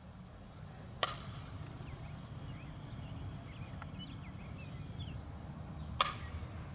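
Two sharp smacks of a softball impact, about five seconds apart, each with a brief ring.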